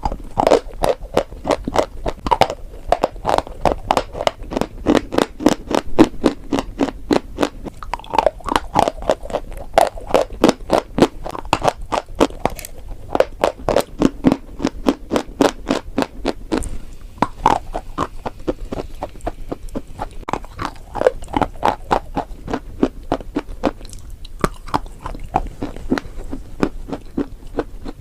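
Close-miked chewing and crunching of edible chalk and clay: a steady run of sharp, dry crunches, several a second.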